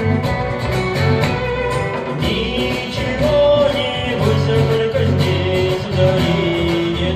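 Live acoustic band music: guitar playing a steady rhythm under held melody notes that glide between pitches.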